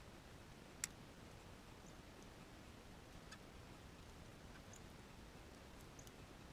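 Near silence with a faint steady hiss, one sharp click about a second in, and a few faint, very short high chirps scattered through, from small birds at a feeder.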